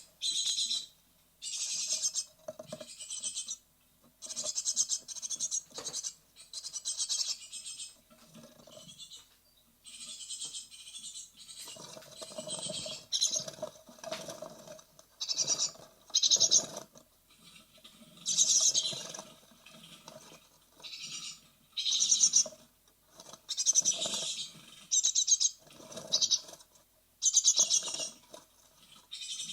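Great tit nestlings giving rapid, rasping begging calls in bursts, one after another, about one burst a second. Dull scuffling sounds lie beneath them, mostly through the middle.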